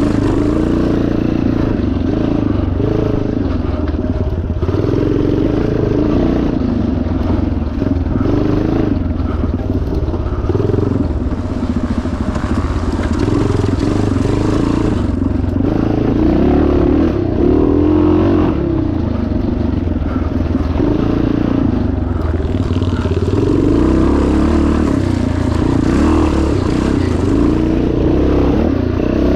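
1977 Yamaha TT500 four-stroke single-cylinder dirt bike engine, ridden hard, its pitch rising and falling continuously as the throttle is worked on and off.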